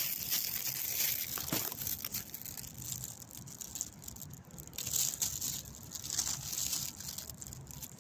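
Crinkling and rustling of a plastic bag being handled, as bird food is taken out of it, with small irregular crackles throughout.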